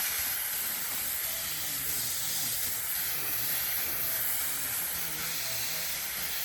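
A steady, high-pitched hiss that runs without a break.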